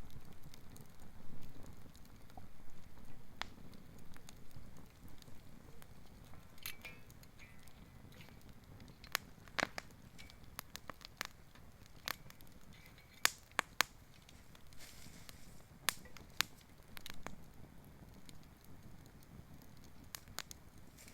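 Wood fire burning, with a steady low rumble and scattered sharp crackles and pops, most frequent through the middle. The fuel is fallen natural wood.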